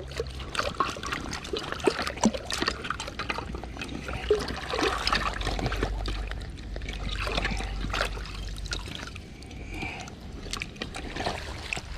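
Creek water splashing and trickling as a rusted steel coyote trap is rinsed off in it, with many small sharp splashes and knocks.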